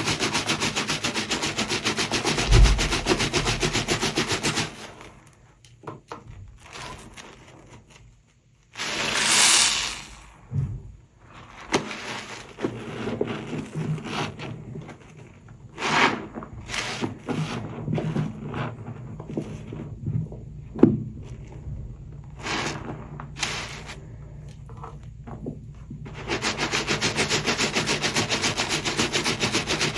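Soapy sponge rubbed and squeezed through thick foam, giving fast, even crackling strokes at the start and again near the end. Between them come quieter scattered squishes and pops, with a short rushing sound about nine seconds in.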